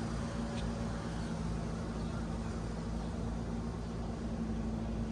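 Steady hum of honeybees buzzing around an opened hive, a low even drone with no sharp sounds.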